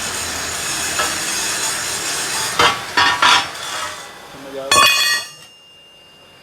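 Metal clanking in a workshop: several ringing strikes of metal on metal, the last and loudest near the end, over a steady hiss.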